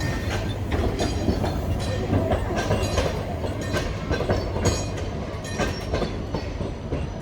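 Puffing Billy narrow-gauge train rolling past, its wheels clattering irregularly over the rail joints above a low rumble, easing off slightly near the end.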